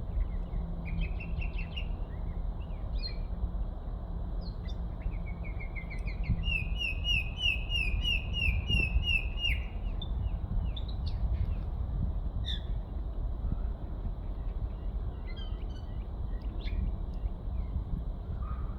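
A songbird calling in series of quick, evenly repeated chirps, with the longest and loudest run of about ten notes lasting some three seconds midway and shorter calls scattered around it; the uploader takes the bird for a Eurasian blackbird. A steady low rumble lies underneath.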